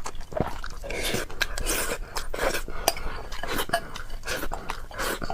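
Close-up eating sounds: utensils clinking and scraping against a dish, mixed with chewing, as a steady run of small clicks.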